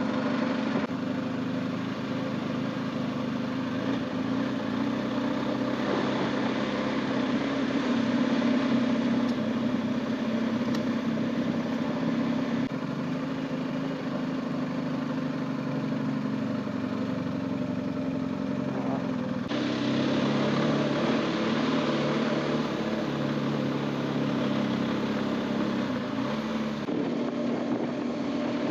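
BMW R1250GS motorcycle's boxer-twin engine running steadily as the bike is ridden, its pitch shifting slightly a few times.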